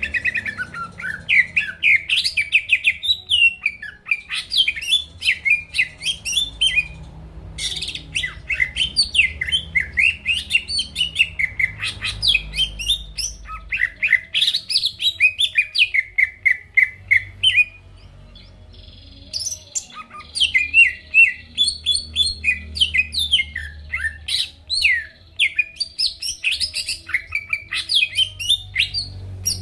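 Cucak ijo (green leafbird) singing in full song: long runs of rapid, varied chattering notes that slide up and down, broken by two short pauses.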